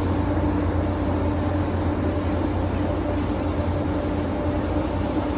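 Train's diesel engine running steadily: a low, unchanging drone with a steady hum above it.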